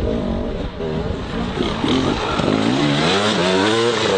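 Motocross dirt bike engines revving, their pitch rising and falling over and over.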